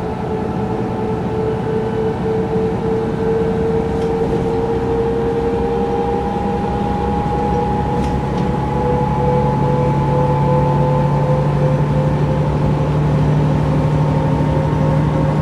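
Mercedes-Benz O405 N² city bus on the move, heard from inside: the diesel engine and Voith automatic gearbox run with a steady whine that slowly rises in pitch and grows a little louder as the bus gathers speed. Two faint clicks come about a third and about halfway through.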